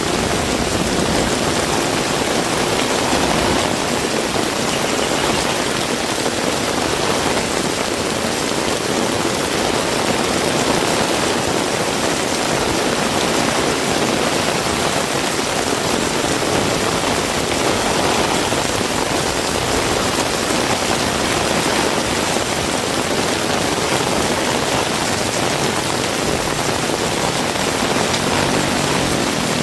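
Heavy rain falling steadily, an even, continuous hiss of rain on the ground and surfaces. Near the end, the low hum of a vehicle engine begins to come in under the rain.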